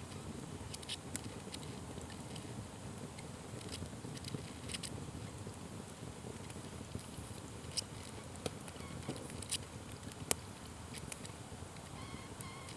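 Wood fire crackling and popping, with irregular sharp snaps over a steady low rustle of burning. The loudest pop comes about ten seconds in.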